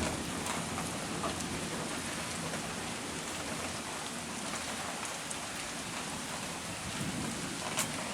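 Steady rain falling on hard surfaces, with a few sharper drop hits, the clearest near the end.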